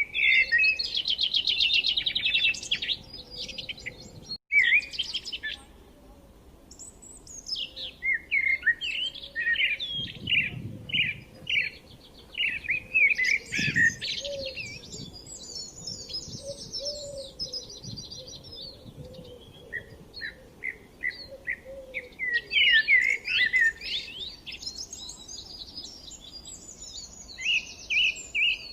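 Several songbirds chirping and trilling in quick, overlapping high-pitched phrases, with short lulls between bursts.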